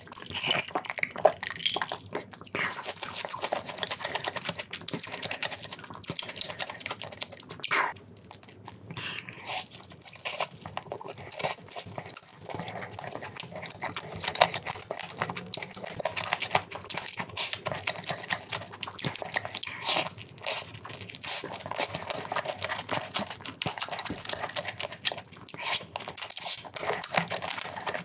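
Close-miked eating: crunchy bites and chewing of fried chicken dipped in cheese sauce, a dense run of sharp crunches and mouth sounds.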